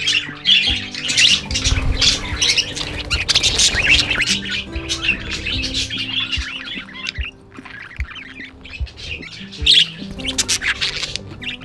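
A flock of budgerigars chattering and squawking continuously, over background music with soft held notes.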